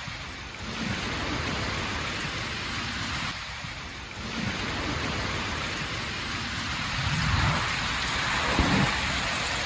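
Steady hiss of heavy rain mixed with rushing water, with a few low rumbles now and then.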